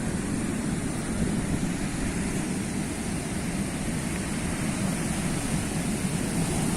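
Sea surf in a steady low rumble, with no separate wave breaks standing out.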